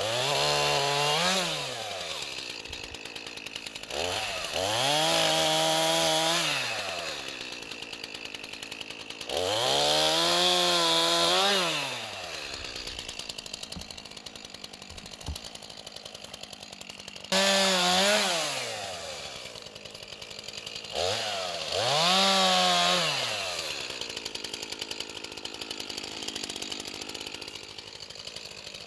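Rented stump grinder's gasoline engine running, its pitch rising, holding high for a second or two, and falling back about five times, with lower steady running in between: the engine working and easing off as the cutter wheel is swung into the stump.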